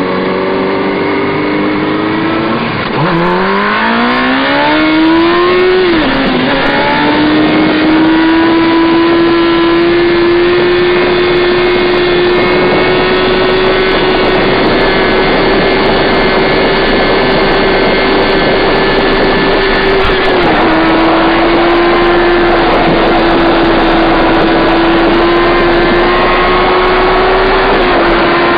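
Motorcycle engine revving up steeply a few seconds in, then held at high, nearly steady revs for a long stretch, with brief drops in pitch about twenty seconds in and near the end.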